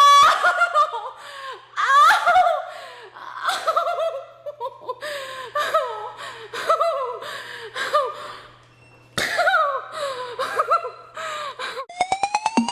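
A person's high-pitched laughing and gasping in short fits with brief pauses. Near the end a music intro starts, with rising sweeping tones.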